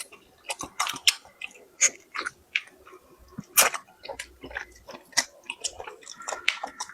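Close-miked chewing and biting on a chicken head: an irregular run of sharp crunches and mouth clicks, the loudest about three and a half seconds in.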